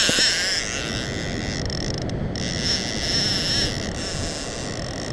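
Fishing reel drag buzzing with a high, wavering whine as a big fish strips line off the reel, over wind and surf noise.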